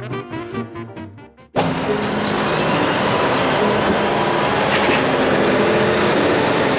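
Brass swing music ends about a second and a half in at a sudden cut, and a truck driving takes over: a loud, steady mix of engine and road noise.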